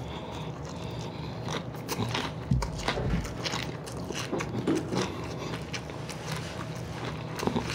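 Close-up chewing and biting of breaded fried chicken wings: wet mouth sounds with many small clicks and crackles. A dull low bump about two and a half seconds in.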